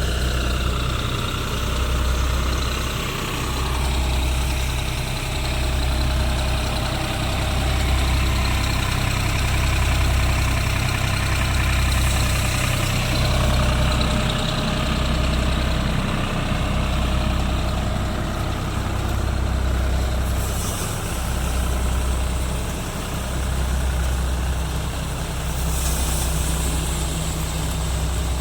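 Deutz-Fahr Agrolux 50 tractor engine running steadily under load while driving a multicrop thresher threshing mustard, with a low throb that swells and fades about every second and a half.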